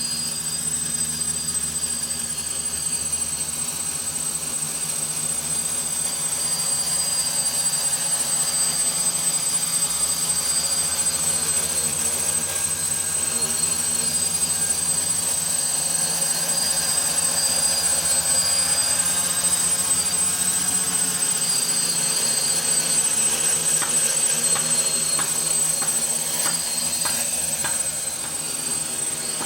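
DJI F550 hexacopter's six electric motors and propellers buzzing steadily in flight, with a thin high whine over the rotor noise. The sound drops off about a second before the end.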